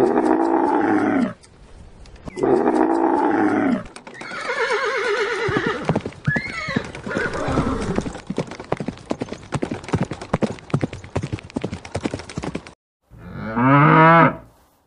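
Two long roars, then a horse neighing over a fast clatter of hooves, with a whinny that rises and falls about six and a half seconds in. Near the end a cow moos once.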